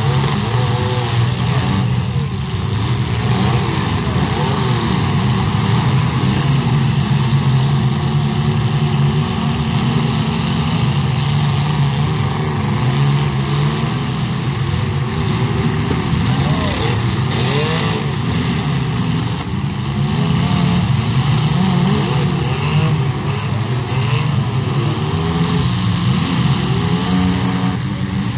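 Several demolition-derby compact cars' engines running at once, revving up and down as they drive and ram, with a few sharp crashes of the cars hitting each other.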